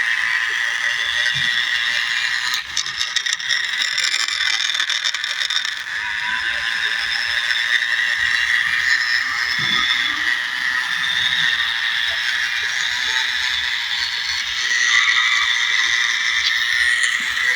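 Electric drive motor and gearbox of a remote-control New Holland toy tractor whining steadily under load as it drives through loose soil, with a spell of rapid rattling and clicking a few seconds in.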